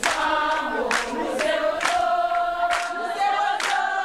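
Choral singing: several voices hold long notes over a steady beat of about two strikes a second.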